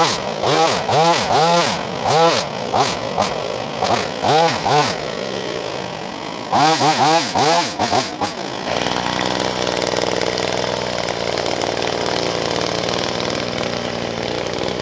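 Wild Badger 4-in-1 multitool's motor driving its hedge trimmer attachment through blackberry brush. It revs up and down over and over as it bites into the growth, then holds a steady high speed from about nine seconds in.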